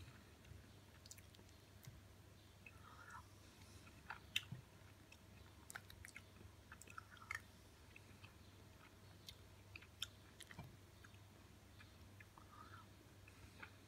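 Faint chewing of soft, ripe papaya, with scattered small mouth clicks and a low steady hum.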